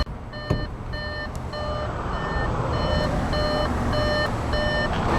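Car's electronic warning chime beeping over and over at an even pace, one tone with overtones, stopping shortly before the end. A single knock sounds about half a second in, over a steady low rumble.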